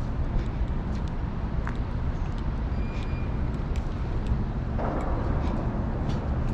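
City street traffic noise: a steady low rumble, with a hiss of a passing vehicle coming up about five seconds in.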